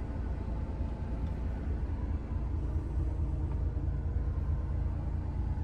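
DAF XF480 truck's PACCAR MX-13 six-cylinder diesel engine running with a steady low rumble.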